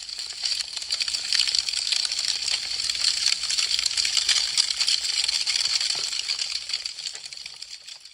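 Burning wood crackling: a dense stream of sharp pops and snaps. It swells up over the first second and fades away over the last two seconds.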